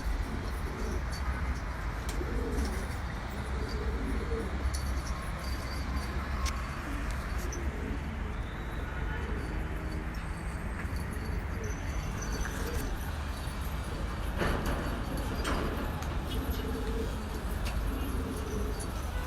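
Domestic pigeons cooing repeatedly over a steady low hum, with a few higher chirps.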